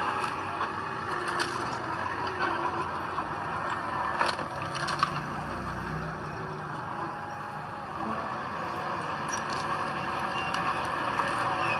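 Heavy diesel earthmoving machinery running at work: a steady engine drone with sharp metallic clanks now and then, a few of them about four to five seconds in.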